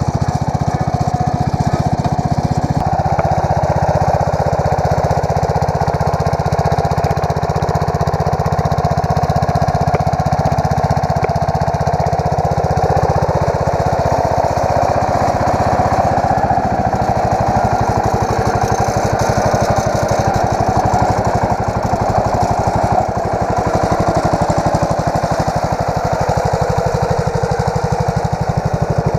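Allis-Chalmers 716H garden tractor engine running steadily.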